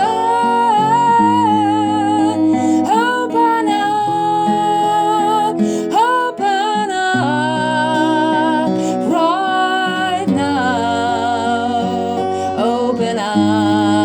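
A worship song: a voice singing a slow melody with vibrato over acoustic guitar.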